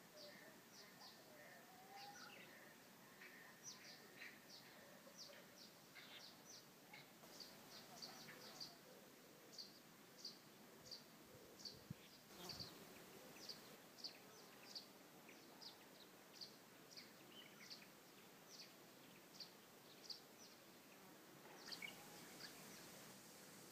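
Faint outdoor quiet with a small bird calling: short, high, slightly falling chirps repeated about once or twice a second at uneven spacing, with a few softer, lower calls in the first few seconds. A brief soft knock about halfway through.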